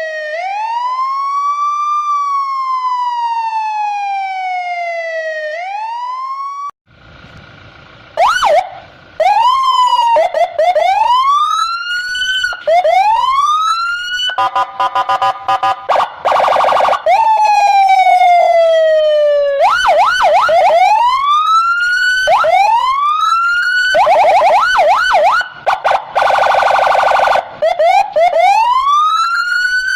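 Police escort electronic siren cycling through its tones. It opens with a slow rising and falling wail, cuts out briefly, then switches to fast repeated yelp sweeps. The yelps are broken twice by a harsh steady buzzing blast lasting a few seconds.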